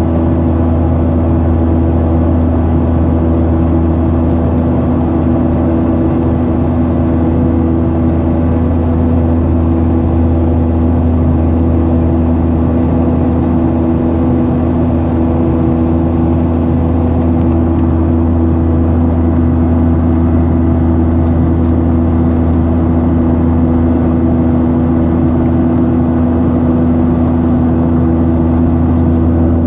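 Boeing 737-800's CFM56-7B turbofan engines running at steady power during the climb after takeoff: an unbroken, loud drone with a deep rumble and several steady humming tones.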